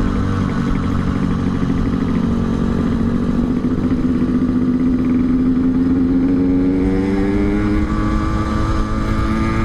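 Yamaha RX-King's 135 cc two-stroke single-cylinder engine running under way through an aftermarket Altec C20 exhaust, its pitch climbing slowly as the bike gathers speed and then holding, over a low wind and road rumble.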